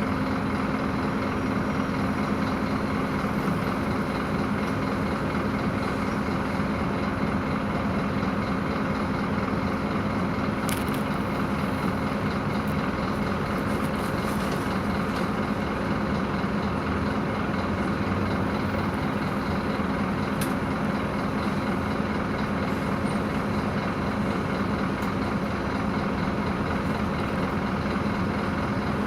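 Scania K230 IB city bus running with a steady, unchanging engine drone over road and body noise, with a few faint ticks.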